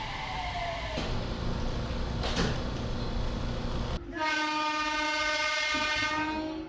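A train rumbles along, then its horn sounds about four seconds in: one long, steady blast lasting about two and a half seconds.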